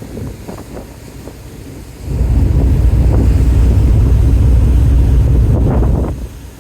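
Wind buffeting the microphone on the deck of a ferry underway: a low rumble that swells into a strong gust about two seconds in and eases off near the end, over the wash of the sea.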